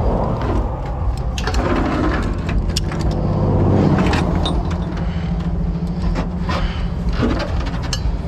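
Flatbed tow truck's engine running steadily, with scattered metallic clicks and clanks over it.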